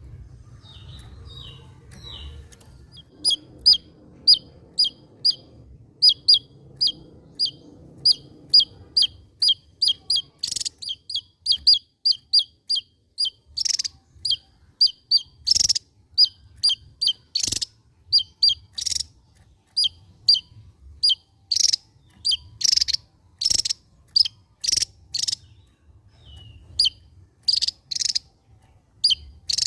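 Javan tesia singing a long run of short, sharp, high notes, two to three a second. A few come faintly at first, and the song turns loud from about three seconds in.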